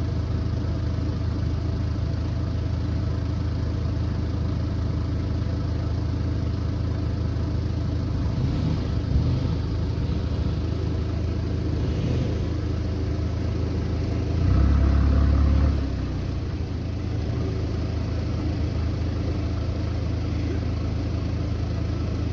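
Four-wheel-drive vehicle's engine running steadily with a low hum, swelling louder for about a second and a half past the middle.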